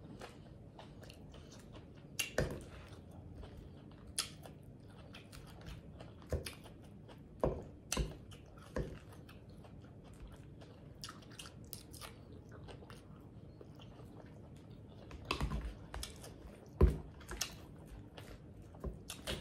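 Close-up chewing and biting of Caesar salad, with scattered sharp clicks and crunches; the loudest comes about 17 seconds in.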